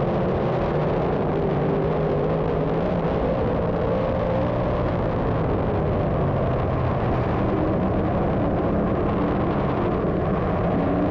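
A field of 358 small-block dirt modified race cars running at racing speed, their V8 engines making a steady, dense drone whose pitches waver up and down as the cars pass.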